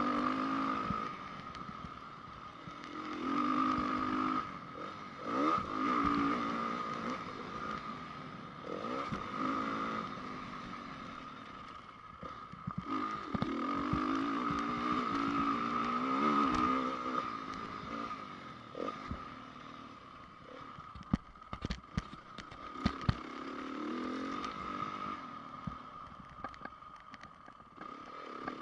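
2010 Honda CRF450 single-cylinder four-stroke motocross engine, revving up and dropping off again and again as the throttle is opened and closed around the track. There are a few sharp knocks about two thirds of the way through.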